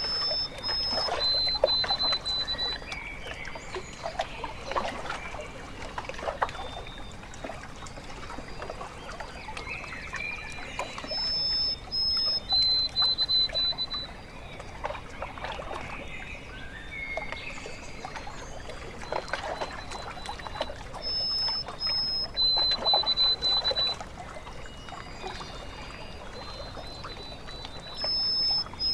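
Small waves lapping and trickling at a lake shore. A bird repeats a short song about every ten seconds: a high steady note, then a lower rapid trill.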